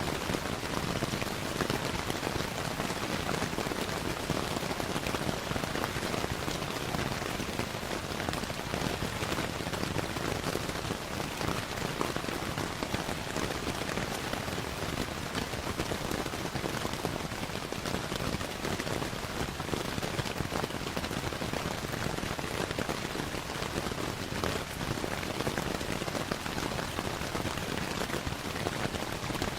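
Steady rainfall blended with a crackling fireplace: an even hiss of rain dotted throughout with many small sharp pops and ticks.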